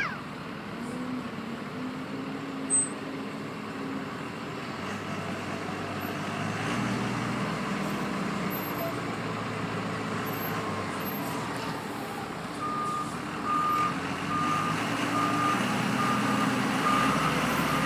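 Heavy diesel machinery running as a dump truck is loaded, the engine note rising and falling, with a short sharp knock about three seconds in. From about two-thirds of the way through, a reversing alarm beeps steadily, roughly once a second.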